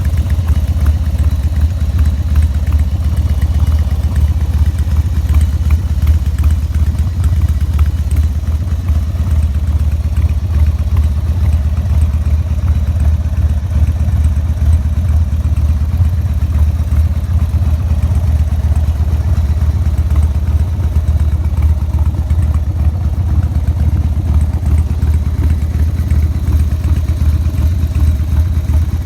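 Harley-Davidson Sportster XL1200S air-cooled V-twin idling steadily through its exhaust, a deep, even rumble with no revving.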